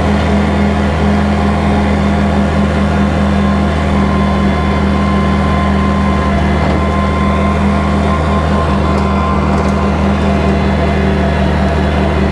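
Kubota tractor's diesel engine running steadily at a constant pitch, driving a bush hog rotary cutter.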